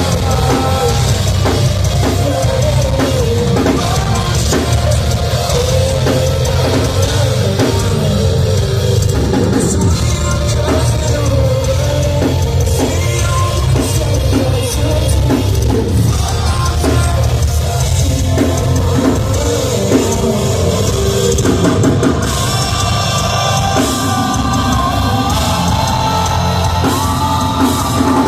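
Live rock band playing loud, heavy music with a full drum kit pounding under distorted guitars and bass, recorded in the concert hall.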